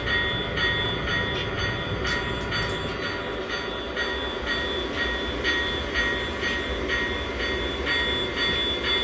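Model train locomotive running along the layout track: a steady mechanical running noise with a thin high tone that comes and goes.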